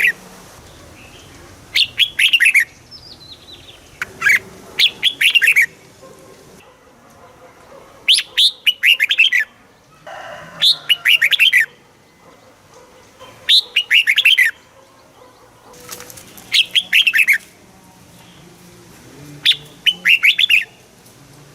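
Red-whiskered bulbul singing: short bubbly phrases of quick rising and falling notes, about one a second long, repeated seven times with gaps of a second or two between them.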